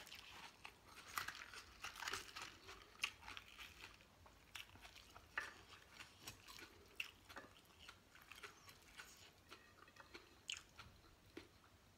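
Close-up chewing of a mouthful of rice-noodle salad with raw vegetables: faint, irregular crisp crunches and wet mouth sounds, busiest in the first few seconds.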